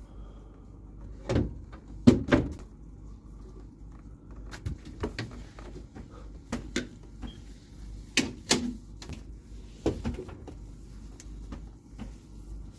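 Irregular knocks and clacks of doors and drawers being opened, shut and handled. The loudest come in a pair about two seconds in and another pair a little past eight seconds.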